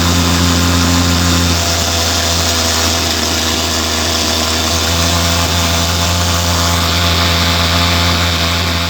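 Thermal fogging machine's pulse-jet engine running, a steady loud low drone with a hiss over it.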